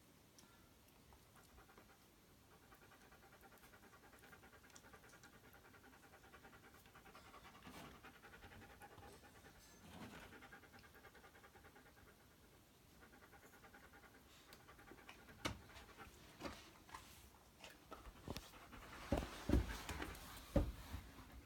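A tiny toy poodle panting rapidly and softly, with a brief pause partway through. In the last several seconds come a run of sharp clicks and knocks, the loudest near the end.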